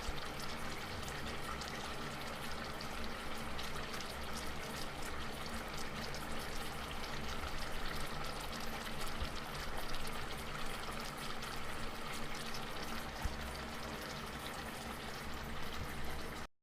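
Liquid bubbling and simmering in a cooking pot: a steady hiss dense with small pops, over a faint low hum.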